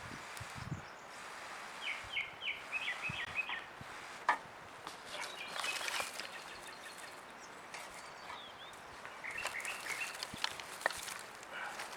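Outdoor ambience with birds calling in quick series of short chirps, two runs of them, one a couple of seconds in and another near the end, and a few sharp clicks in between.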